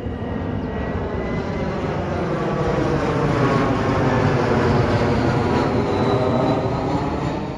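Long Island Rail Road M7 electric multiple-unit train pulling out of the station, with a deep rumble of wheels on rail and a motor whine that climbs in pitch as it gathers speed. The sound builds to its loudest about five seconds in.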